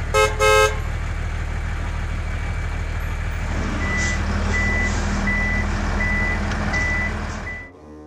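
Two short horn toots, then a heavy truck engine running steadily. In the second half about seven evenly spaced reversing beeps sound over the engine, and the engine cuts off near the end.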